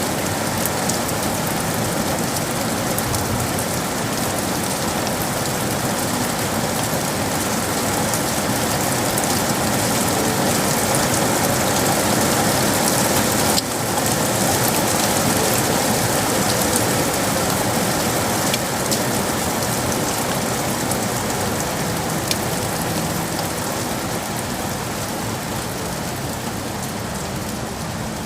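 Steady rain falling on hard surfaces, with many sharp drop ticks through the hiss and a brief dip in the sound about halfway through.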